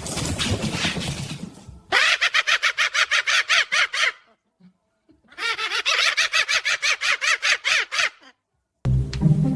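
Cockatoo giving a harsh screech, then two bouts of rapid cackling laughter, about nine high squawks a second, each bout two to three seconds long.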